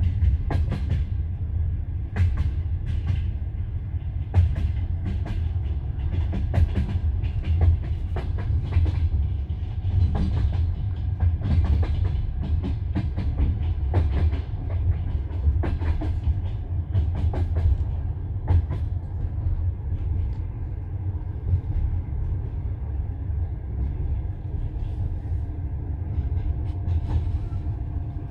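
Passenger train carriage running along the line: a steady low rumble with the clatter of the wheels, sharp clicks and knocks coming at uneven intervals. A faint steady whine joins in near the end.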